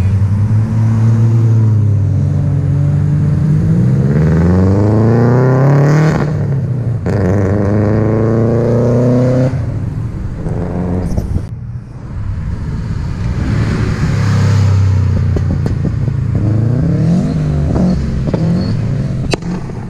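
Car engines accelerating hard along a street, the engine note climbing steeply in several long rising runs with short breaks between them.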